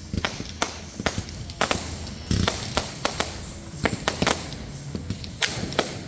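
Aerial fireworks shells bursting: an irregular string of sharp bangs and pops, one to three a second, over a low steady rumble.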